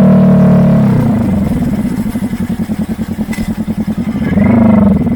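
Kawasaki Vulcan S 650's parallel-twin engine through a Truedual Valero twin-pipe exhaust. It runs steadily, then drops off about a second in to a pulsing idle. Near the end it gives one short blip of the throttle.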